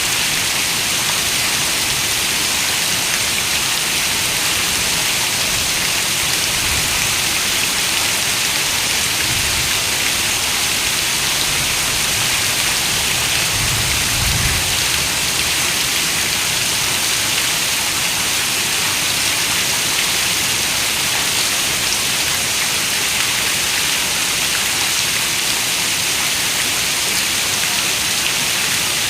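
Steady, dense rain falling on a window, an even hiss of many raindrops. A brief low rumble rises and fades about halfway through.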